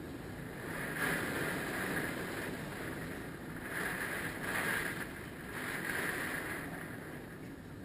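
Hurricane-force wind gusting, its noise swelling and easing three times, with the wind buffeting the microphone.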